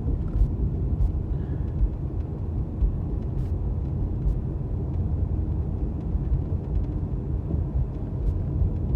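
Steady low rumble of a car's engine and tyres heard from inside the cabin while driving slowly, with a few faint light ticks.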